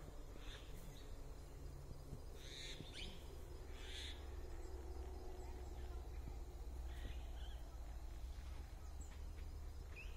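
Birds calling outdoors: a handful of short calls, the clearest about two and a half and four seconds in, over a low steady rumble.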